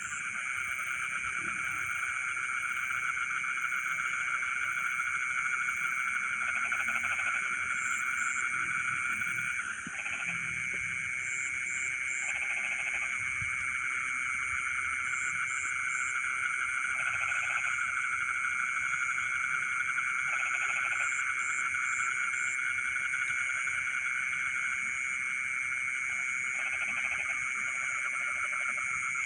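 Frogs chorusing in a rice paddy at night: a dense, steady trilling chorus, with a deeper croak in short bouts every few seconds and a high, steady buzz above it.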